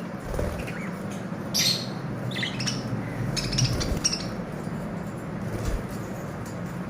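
Pet lovebirds giving short, sharp squawks and chirps, scattered and bunched through the middle, over a steady low background hum.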